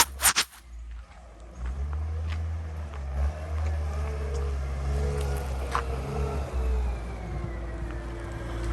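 Street traffic: a car engine running past over a steady low rumble, its pitch falling away near the end. A few sharp knocks at the very start.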